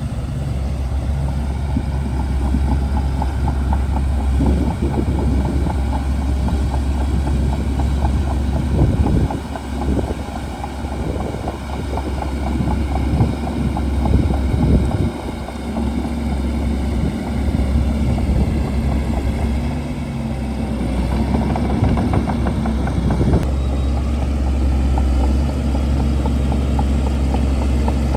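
Shantui DH17C2 bulldozer's diesel engine running steadily with a deep drone, with a rapid clatter over it that dips a little around ten and fifteen seconds in.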